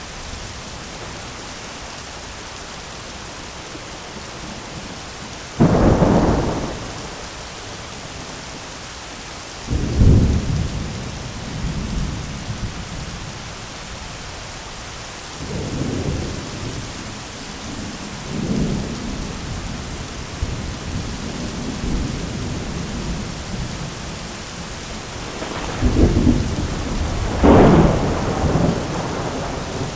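Thunderstorm: steady heavy rain with rolls of thunder, a sharp clap about six seconds in, another near ten seconds, softer rumbles in the middle, and a long loud roll near the end.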